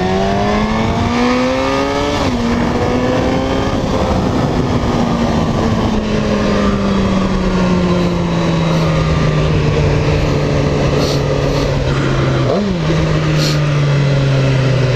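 Suzuki GSX-R1000 sportbike's inline-four engine under way: it pulls up through a gear, shifts about two seconds in, climbs again, then winds slowly down as the bike eases off. There is a quick rev blip, typical of a downshift, about three seconds before the end. Steady wind noise runs under the engine.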